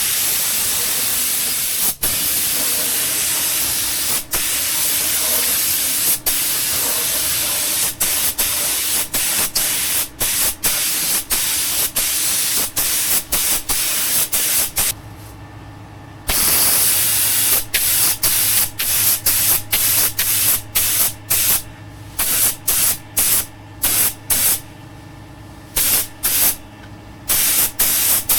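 Paint spray gun hissing as the second coat is sprayed: long steady passes for the first half, then, after a brief pause about halfway, many short bursts as the trigger is pulled and released. A low hum joins in from the pause onward.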